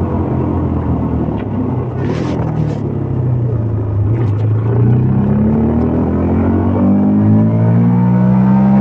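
CFMOTO Papio 125's single-cylinder engine running. Its pitch sags, then climbs steadily through the last few seconds as the revs rise.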